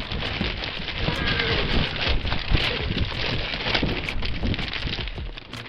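Steady rustling, crackling noise with many small clicks and a few soft knocks, dipping near the end.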